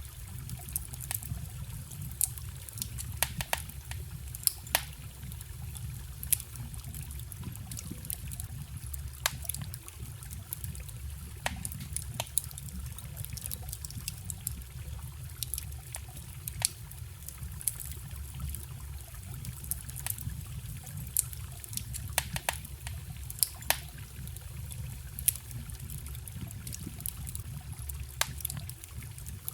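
Wood fire crackling, with frequent sharp pops, over the steady low rush of a forest stream.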